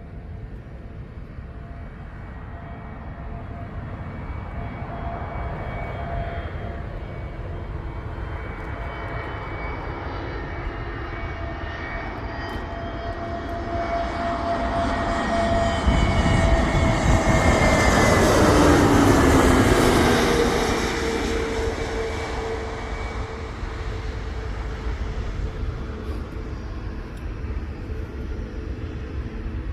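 Jet airliner on final approach passing low overhead: the engine whine and rush build up, peak about two-thirds of the way in, then drop in pitch as it goes past and fade.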